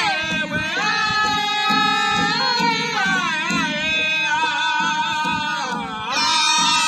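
Powwow drum group singing a high, wavering song together over steady beats on a big powwow drum, the voices gliding down near the end of a phrase about six seconds in.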